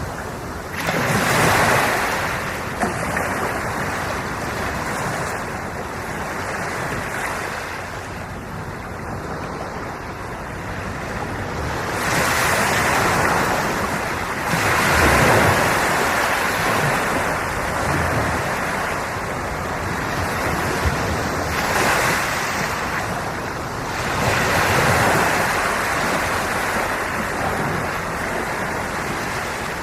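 Sea waves washing onto the shore, the surf swelling and easing in slow surges several seconds apart.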